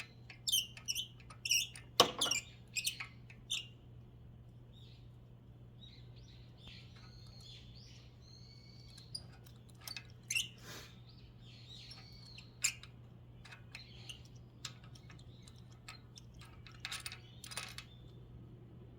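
Small birds chirping in short, high, repeated calls, in clusters near the start, in the middle and near the end, over a steady low hum. A single sharp click about two seconds in.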